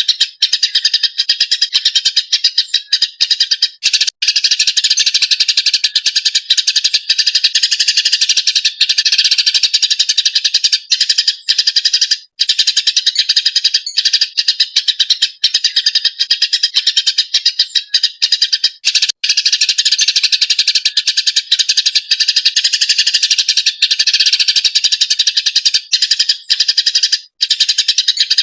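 Eurasian tree sparrow chattering: harsh, rapid, high chirps that run on almost without pause, broken by only a few brief gaps.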